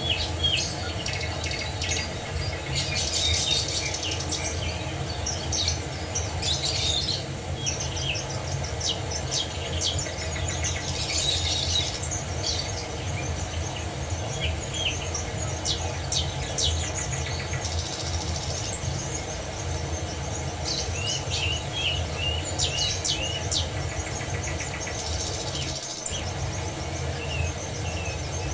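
Several songbirds chirping and singing over a steady low rush of falling water. About three-quarters of the way through, one bird gives a quick run of five or six short repeated notes.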